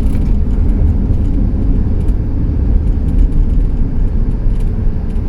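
Steady low rumble of road and engine noise inside the cab of a 19-foot 2008 Pleasure-Way Ascent camper van cruising on the highway, with faint scattered light rattles.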